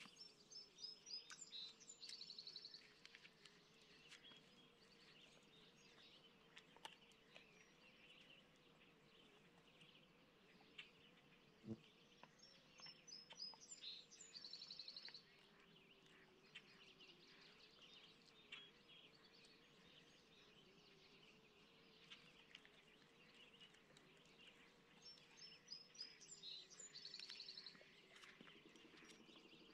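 Faint songbird singing the same short high phrase, ending in a fast trill, three times about twelve seconds apart, over a faint steady low hum. A single soft knock comes about halfway through.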